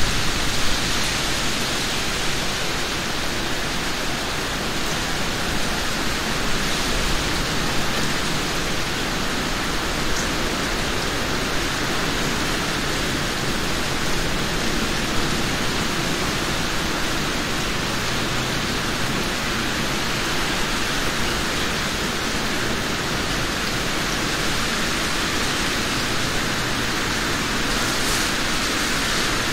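Heavy rain falling steadily on a shingled roof and surrounding trees, an even, unbroken hiss.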